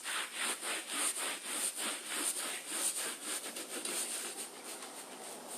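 Scrub brush scrubbing a wet rubber anti-fatigue mat coated in degreaser, in quick back-and-forth strokes of about three a second, easing off near the end.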